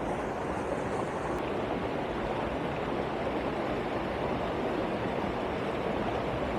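Steady rushing of a waterfall. A faint high hiss stops with a click about a second and a half in.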